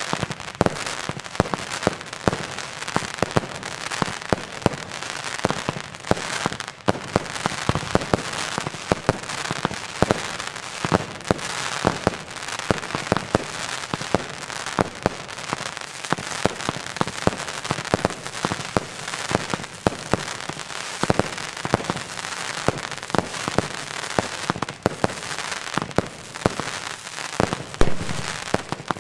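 Two Pro-Line President 2.0 firework cakes firing together: a dense, unbroken volley of launching shots and bursting, crackling stars, with one louder bang near the end.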